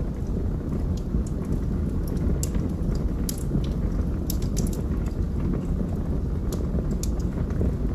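Wood fire burning in a fireplace: a steady low rumble of flames with sharp, irregular crackles and pops from the burning logs, several close together around the middle.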